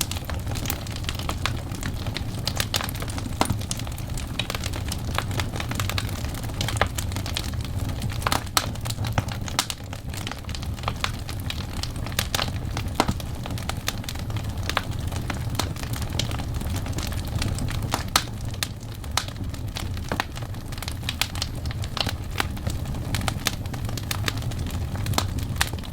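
Burning wood logs crackling in a fire: sharp, irregular pops and snaps over a steady low rumble.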